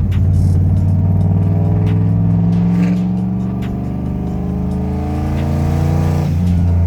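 Turbocharged 4.6-litre four-valve modular V8 of a Mustang accelerating, its pitch rising steadily, then dropping sharply about six seconds in.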